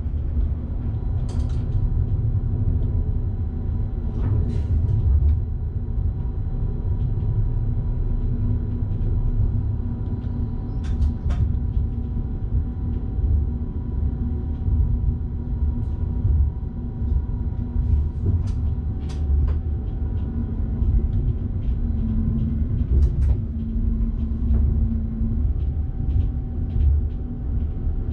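Electric passenger train running on the Bergen Line, heard from the driver's cab: a steady low rumble with faint steady whining tones. Scattered short clicks and knocks come through it.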